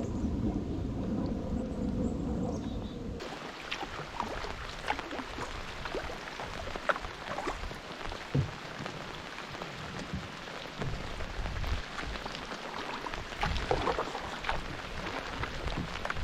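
A low rumble of thunder that cuts off sharply about three seconds in, followed by steady rain with many scattered drops tapping close by.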